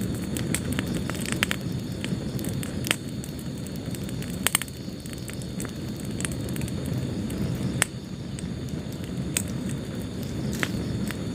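Wood fire burning in a fireplace, a steady low rumble of flames with irregular crackles and sharp pops, the loudest about halfway through and near the end.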